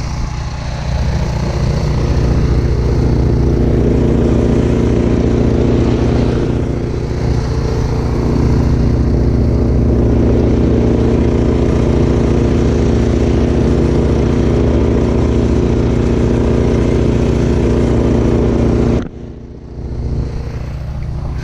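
Snowblower's small gasoline engine running steadily, then cutting off suddenly near the end.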